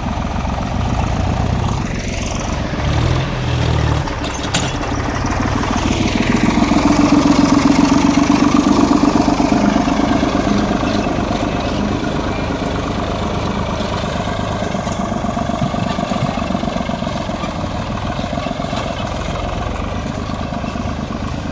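Tractor diesel engine running under load, revving up about six seconds in and then settling to a steady run.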